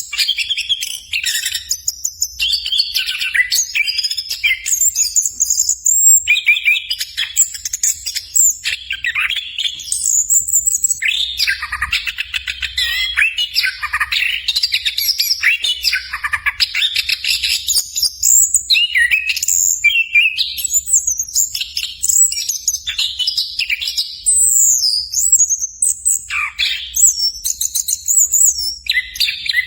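Chestnut-capped thrush (anis kembang) singing a long, fast, varied song of high twittering phrases, with only short pauses between runs.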